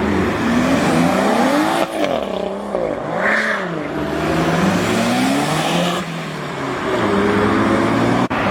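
A car engine revving, its pitch rising and falling several times before settling to a steadier, lower run.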